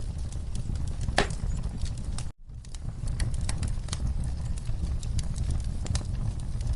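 Campfire crackling: wood fire with a steady low rumble and frequent sharp pops and snaps. The sound cuts out for an instant about two and a half seconds in.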